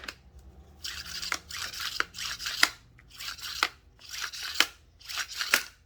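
Husqvarna 55 chainsaw recoil starter rope pulled out and let rewind five times, about once a second, each stroke a scraping run of the rope ending in a click. The starter spring has just been given two wraps of pre-tension and now pulls the rope back in properly.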